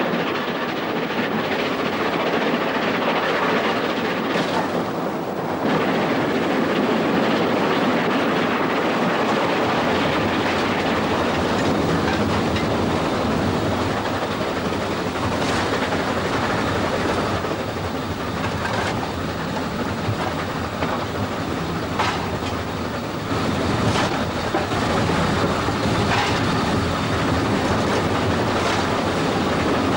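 A train running along the line: a steady, dense rumble broken by a few sharp clicks from the wheels.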